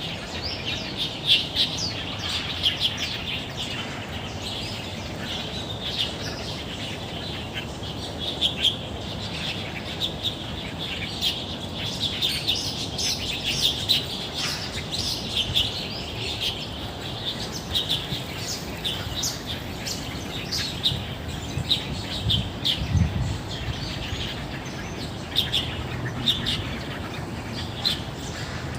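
Many small birds chirping and twittering in a chorus of short, overlapping high chirps, over a low background hum, with a brief low rumble near the end.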